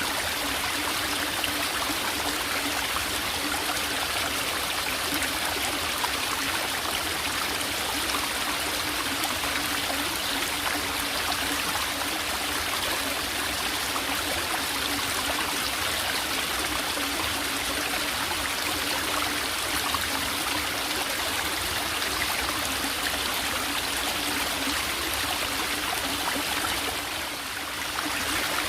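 Small forest stream trickling and gurgling over rocks, a steady rush of running water. It dips briefly about a second before the end.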